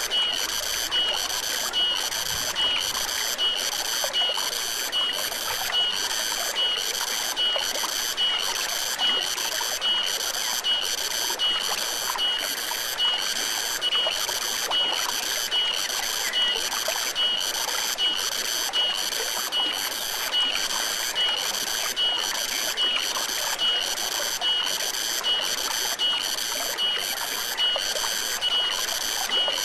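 A stream trickling and gurgling, with a high-pitched animal chirp repeating evenly about three times every two seconds.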